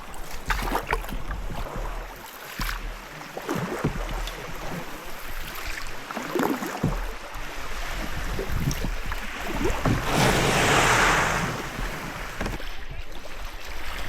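Canoe paddles dipping and splashing in loch water at irregular strokes, with wind buffeting the microphone on and off. About ten seconds in, a louder rush of water or wind lasts a second or so.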